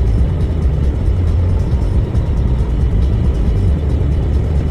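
Car driving on a snowy road: a steady low rumble of tyre and engine noise.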